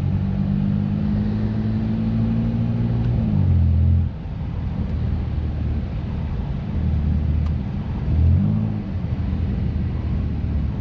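BMW F80 M3's twin-turbo straight-six, with catless downpipes and an open valved exhaust, droning at low revs while driving. A little past three seconds in its pitch falls and the sound eases. After that the note comes and goes, with a short rise in pitch around eight seconds in.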